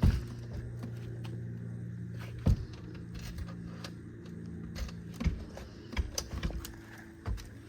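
A steady low mechanical hum with scattered knocks and clicks: a sharp one at the start, another a couple of seconds in, and a cluster of them near the end, like objects being handled and set down.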